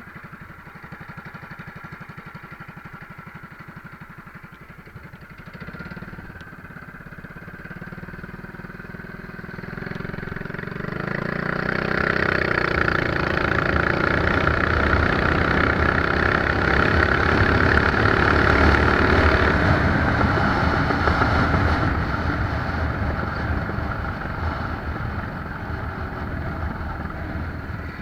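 Mini bike engine idling, then opened up about ten seconds in, its pitch rising as the bike accelerates hard at full throttle. It is loudest for several seconds, then the throttle is let off and the engine note falls away as the bike coasts.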